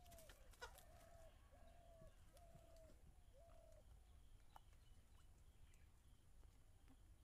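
Faint bird calling a series of about five short, evenly spaced notes at one pitch, each dipping at its end, fading out after about four seconds. A few sharp clicks come in the first second, over a low steady background rumble.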